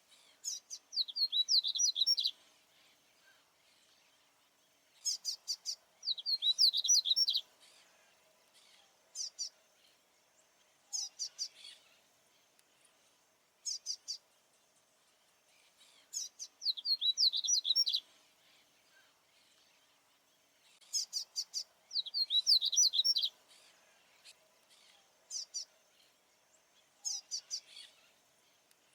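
Male papa-capim baianinho seedeater singing: full song phrases of rapid, high notes lasting about two seconds, given every four to five seconds, with short chirps in between.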